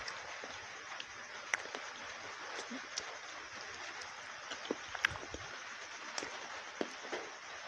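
Close-miked eating sounds: wet chewing, lip smacks and sharp mouth clicks of someone eating saucy masala chicken wings with their fingers, scattered irregularly over a steady hiss.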